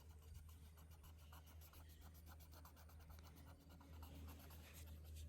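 Faint scratching of drawing on paper: many quick, short strokes over a low steady hum.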